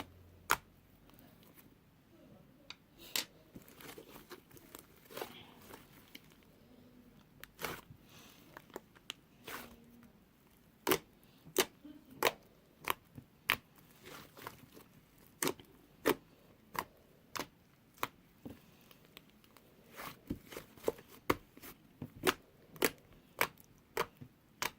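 Hands squeezing and pressing slime, making a series of sharp clicking pops from trapped air with soft squishing between them. The pops are scattered at first and come about once or twice a second through the second half.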